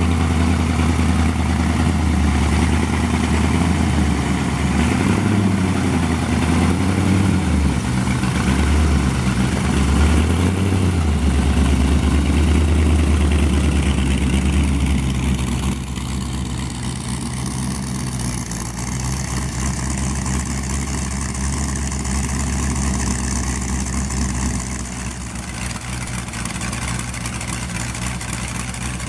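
A 1932 Ford Sport Coupe hot rod's engine running, its pitch rising and falling with the throttle for the first half. About halfway through it settles to a steadier, quieter idle, exhausting through a row of individual tailpipes.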